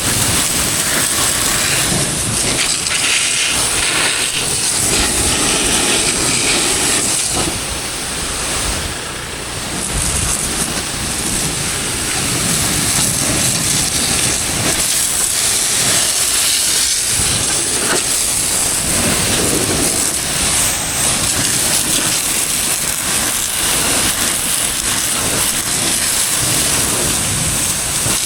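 High-pressure water jet spraying a tractor's rotavator during washing: a steady, loud hiss that drops off briefly about a third of the way in, then carries on.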